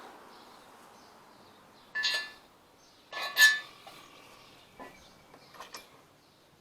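Steel crane parts and bolt hardware clinking as the boom is fitted onto its swivel: two sharp metallic clanks with a brief ring about two and three seconds in, the second the louder, then a few lighter ticks.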